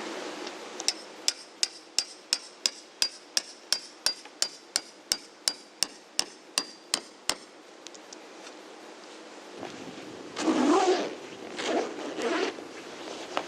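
A hammer driving a metal tent stake with about twenty quick, evenly paced strikes, roughly three a second, each with a short metallic ring. The strikes stop, and a few seconds later come some rustling and scraping sounds.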